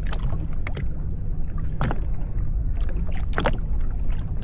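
Jet ski engine idling with a steady low rumble, with a few brief sharp knocks about a second apart.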